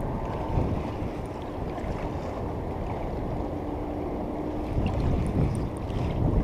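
Wind rumbling and buffeting on the microphone outdoors by a river, a continuous low noise that swells and dips.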